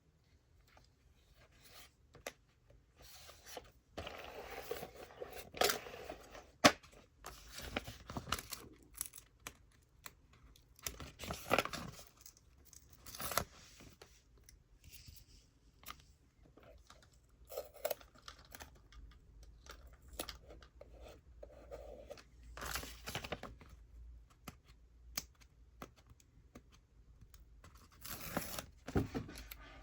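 Toy packaging being torn and opened by hand, in irregular noisy bursts with scattered sharp clicks and taps.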